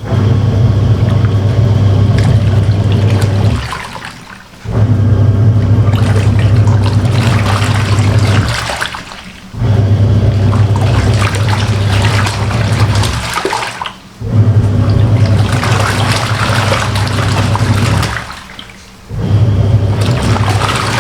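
Samsung semi-automatic top-loading washing machine running its wash cycle with clothes in water: the pulsator motor hums and the water churns and sloshes for about four seconds, stops for about a second, then starts again, five runs in all as the pulsator reverses direction.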